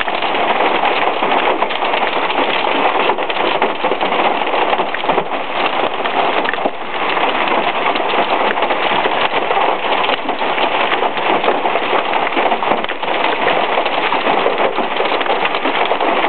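Torrential thunderstorm rain mixed with nickel-sized hail pelting down: a loud, steady, dense hiss of countless small impacts.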